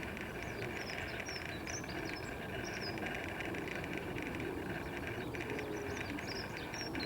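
Steady trilling of insects, with short, high bird chirps scattered over it and a low background rumble.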